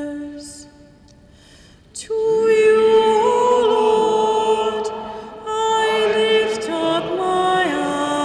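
Responsorial psalm being sung on long held notes in a church. A note fades in the first second, then after a short lull the singing comes back about two seconds in and carries on.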